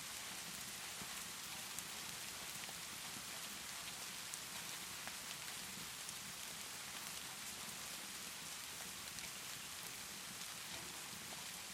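Steady rainfall, an even hiss, with a few faint sharp clicks scattered through it.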